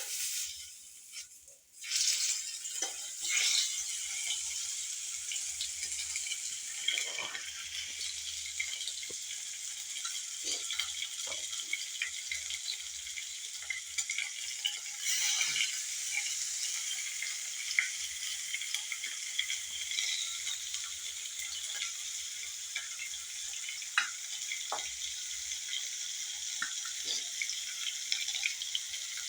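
Chicken frying in hot oil: a steady sizzle with scattered crackles and pops.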